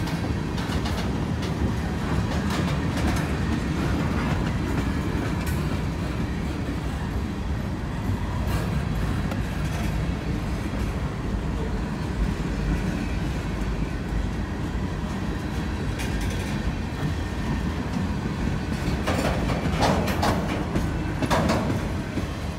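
A freight train's cars rolling past close by, covered hoppers and then auto-rack cars: a steady rumble of steel wheels on the rails with a clickety-clack over the joints. A few louder sharp sounds come near the end.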